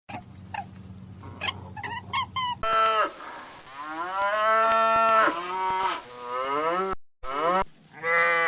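A cow mooing: a few long, drawn-out moos, each rising and then falling in pitch. Short, high calls of another animal come before them in the first couple of seconds, and another animal's call sounds near the end.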